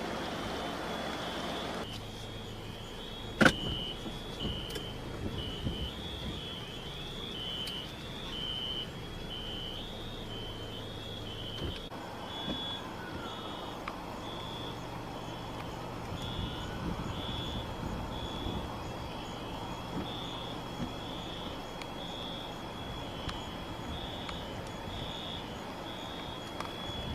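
High electronic alarm tone beeping steadily, switching back and forth between two pitches about twice a second, over a low steady engine hum. A single sharp click sounds about three and a half seconds in.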